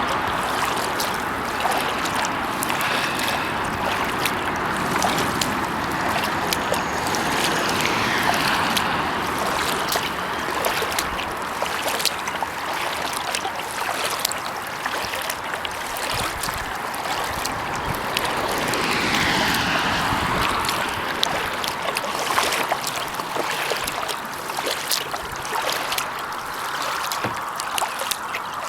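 Kayak paddling: the paddle blades dipping and pulling through the water, with water trickling and dripping off the paddle and frequent small splashes.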